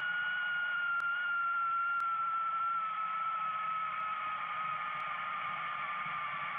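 Toilet tank refilling: water hissing through the fill valve with a high whistle that slowly falls in pitch.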